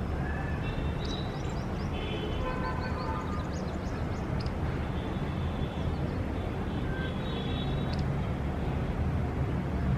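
City street ambience: a steady rumble of traffic with birds chirping over it, and a few short distant vehicle horn toots.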